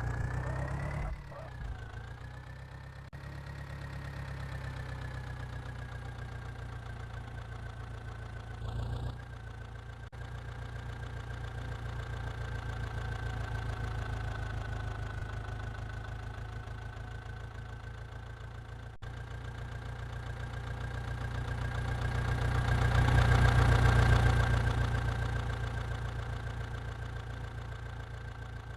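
Massey Ferguson 9500 DI tractor's diesel engine running steadily, with a steady high whine over it. It grows louder for a few seconds near the end of the stretch, then eases off.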